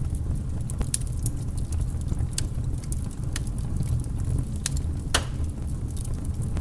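Wood fire burning in a fireplace: a steady low rumble of the flames with scattered crackles and pops, one louder snap about five seconds in.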